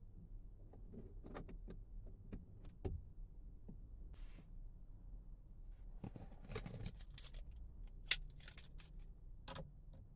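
Faint jingling of keys with scattered clicks and knocks from handling, busier in the second half with several sharp metallic jingles.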